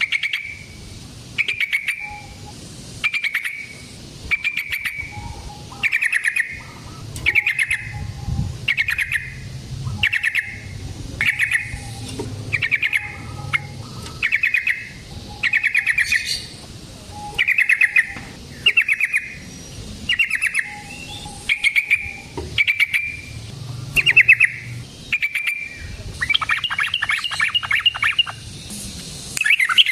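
Yellow-vented bulbul (trucukan) calling: short bursts of rapid chattering notes repeated about once a second, breaking into a longer, denser rattling phrase near the end.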